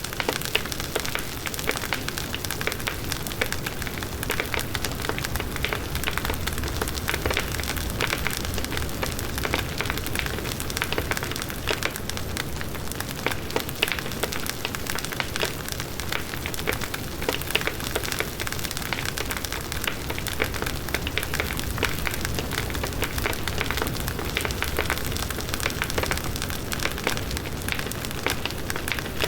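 Large outdoor bonfire burning: a dense crackle of burning wood with a low rumble of flames.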